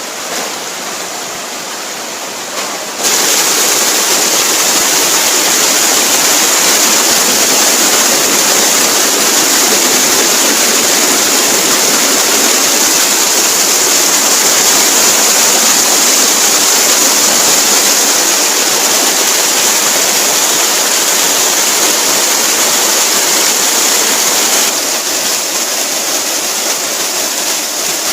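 Steady loud rush of falling water at the Cibeureum waterfall, a dense even roar. It jumps louder about three seconds in and eases slightly near the end.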